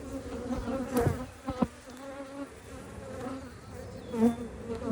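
Honeybees buzzing around an open hive, the buzz wavering up and down in pitch as bees fly past close by. Two sharp knocks come about a second in and half a second later.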